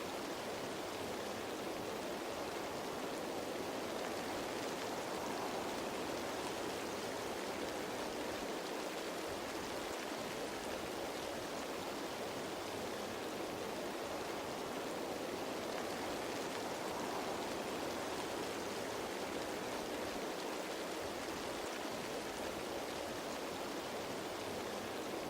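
Steady rain falling on leaves: an even, unbroken hiss of many drops with no single drop standing out.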